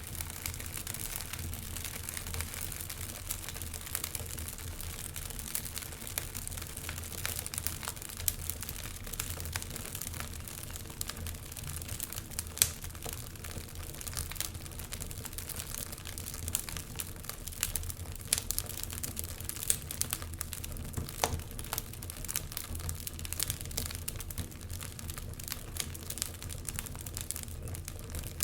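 Wood fire crackling in a fireplace: a constant run of irregular snaps and pops over a low steady rumble, with one louder pop about twelve seconds in.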